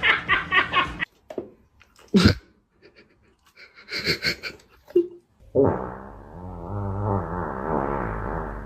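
An animal's vocal sounds: a short sharp burst about two seconds in, some scattered short sounds, then a long wavering call over the second half.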